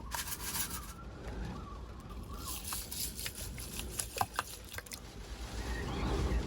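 Storm wind buffeting a parked Daihatsu Hijet Cargo kei van, heard from inside the cabin as a constant low rumble, with hissing gusts of rain striking the body. A few sharp clicks come in the middle.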